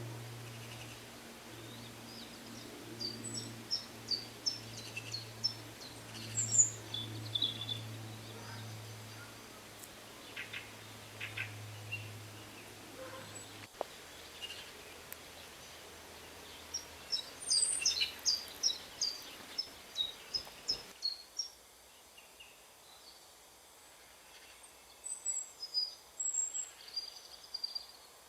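A small songbird calling in several bursts of quick, high chirps. Under the first half runs the low steady hum of a buzzing insect, which stops about halfway through.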